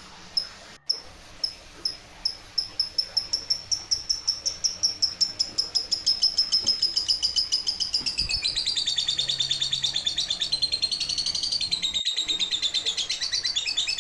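Washing machine spin tub squeaking once per turn, the squeaks coming faster and faster as the new spin motor brings the tub up to speed, until they blur into a continuous wavering squeal.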